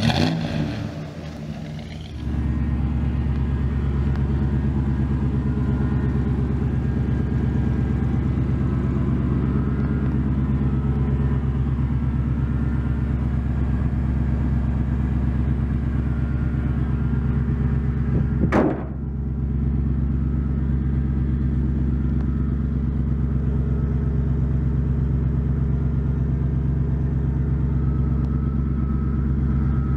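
Fuel-injected 6.0 LS V8 idling steadily, with an even, low, unchanging note. One sharp click comes about two-thirds of the way through.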